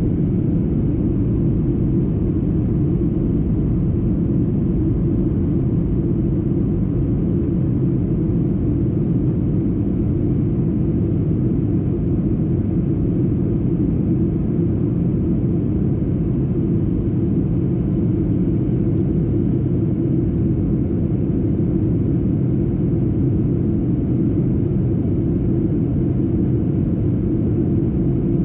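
Steady rumble of airliner cabin noise, an even, unchanging drone of engine and airflow with no other sound standing out.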